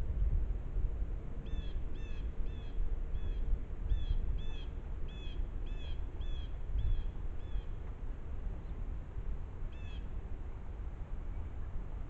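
A bird calling in a quick series of short, high, harsh notes, about two or three a second for several seconds, with one more call near the end, over a steady low rumble.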